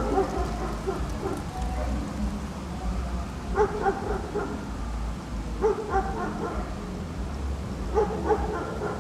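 A dog barking in short clusters of yelps, roughly every two seconds, over a steady low background rumble.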